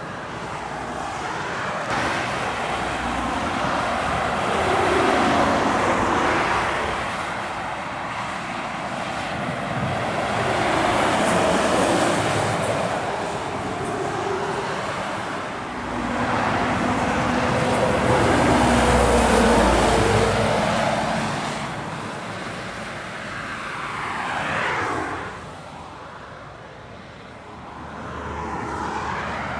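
Heavy trucks passing one after another on an uphill road, their diesel engines pulling under load with tyre noise, each swelling up and fading away. The loudest truck passes a little after halfway, and another vehicle sweeps quickly past near the end.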